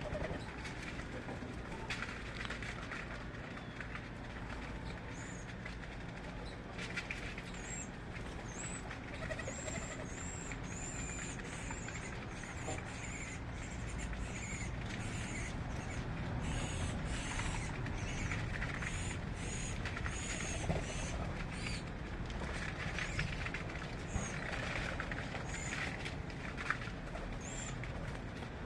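Small birds calling with many short, thin, high chirps that repeat on and off from a few seconds in, over a steady low rumble.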